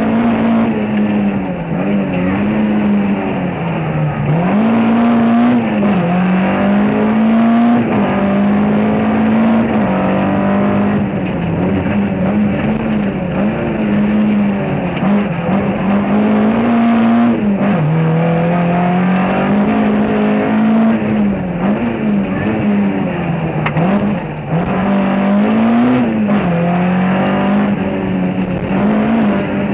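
Rally car engine heard from inside the cabin, driven hard along a stage: the engine note keeps climbing and falling, with sharp drops in pitch several times, over steady road and tyre noise.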